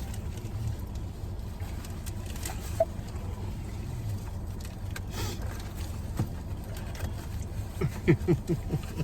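Steady low hum inside a car cabin, with a few faint clicks and, about eight seconds in, a quick cluster of short sounds.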